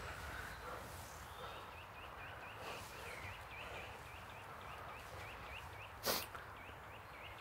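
A bird calling in a steady run of short high chirps, about three a second. A single brief, sharp sound about six seconds in is louder than the chirps.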